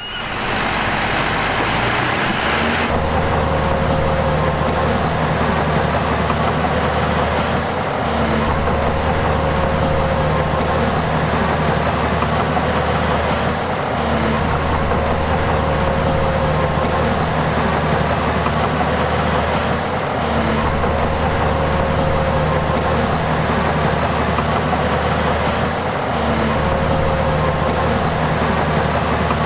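Heavy diesel earthmoving machinery running steadily, a low engine drone that dips briefly about every six seconds, after a short hiss in the first couple of seconds.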